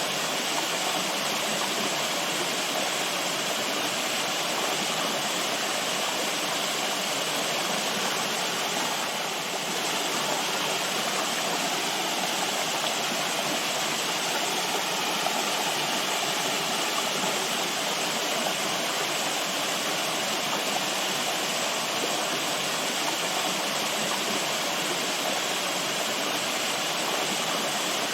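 Running water from a stream or small waterfall, a steady, even rush of splashing and flowing water.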